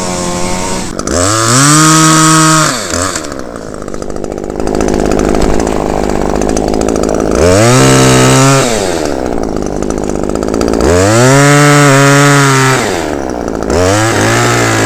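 Chainsaw cutting beech wood, revved to full throttle in about four bursts, each rising sharply in pitch, holding and dropping back. Between the bursts it runs rougher and lower, under load in the cut.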